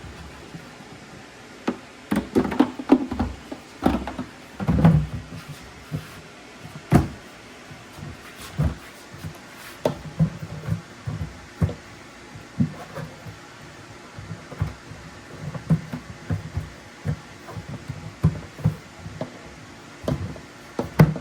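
Irregular knocks, clunks and clicks of objects being handled and set down, with no steady machine running.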